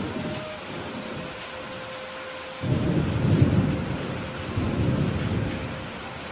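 Steady rain hiss with thunder: a low rumble dying away in the first second, then a louder roll of thunder about two and a half seconds in that swells a second time and fades out near the end.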